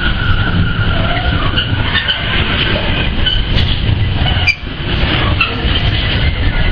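Container freight train passing close by: a loud, steady rumble of wagon wheels on the rails with a thin, steady high squeal above it, dipping briefly about four and a half seconds in.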